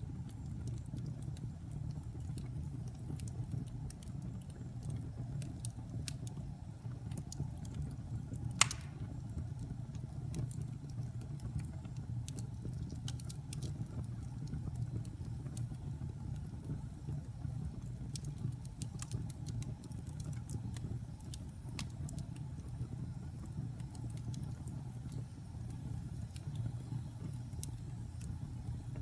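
Wood fire burning in a fireplace: a steady low rumble of flames with scattered light crackles throughout and one sharp, loud pop about nine seconds in.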